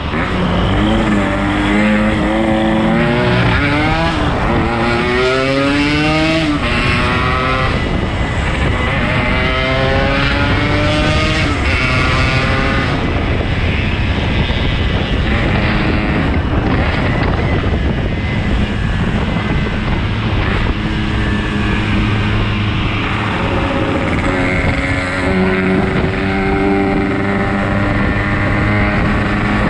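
Yamaha RX-King 135 single-cylinder two-stroke motorcycle engine under way, revving up several times in succession as it accelerates through the gears, then settling to a steadier, more even pitch while cruising.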